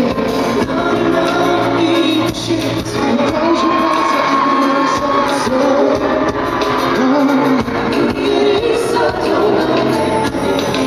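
Live concert audio of a pop song: a male singer's voice over a loud backing track with a steady beat, with shouts from the audience in a large hall.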